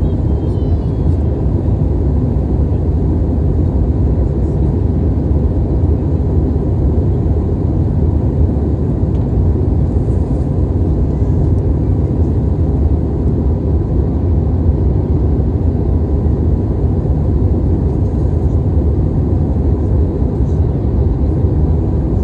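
Steady low rumble of an airliner cabin in flight: engine and airflow noise that holds unchanged throughout.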